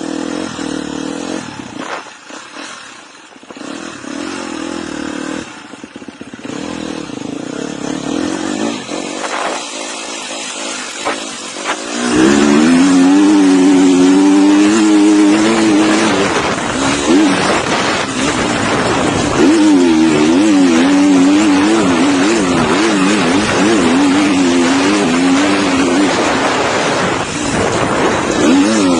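Dirt bike engine heard from an onboard camera while riding in sand, revving up and down continually. It gets much louder about twelve seconds in, the pitch rising and falling every second or so, over a steady rush of noise.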